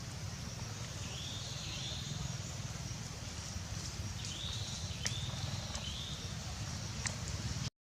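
Faint outdoor ambience: a steady low rumble and a high hiss, with two brief runs of short, high, arched chirps and a few light clicks. It cuts off abruptly just before the end.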